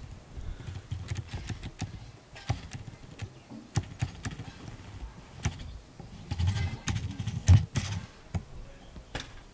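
A narrow-gauge train in motion: the coach rattles and clicks irregularly over the track, with a low rumble and a loud knock about three-quarters of the way through.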